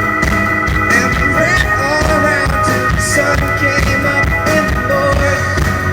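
Live amplified pop-rock band playing an instrumental stretch between sung lines, over a steady drum beat.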